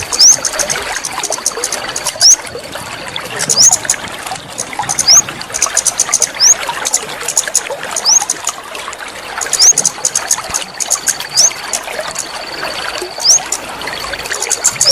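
Water trickling and dribbling steadily: a water-sound therapy meant to get a caged bird singing again. Over it a short, high, rising chirp repeats every second and a half or so, with bursts of rapid high ticking and a thin steady high tone that comes and goes.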